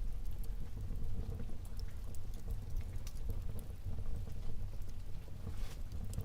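Wood fire burning in a fireplace: a steady low rumble of the flames with scattered sharp crackles and pops, a slightly longer crackle near the end.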